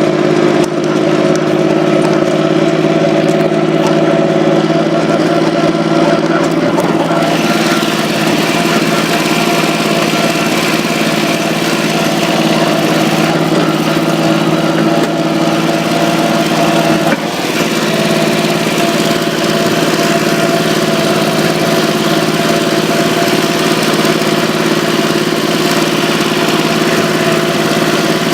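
Tractor engine running at a steady speed, with more hiss coming in about a quarter of the way through.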